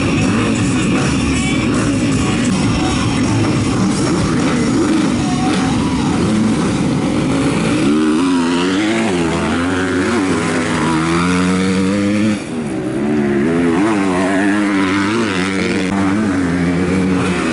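Motocross bikes on track, engines revving up and down. From about halfway, one engine's rising and falling revs stand out above the rest.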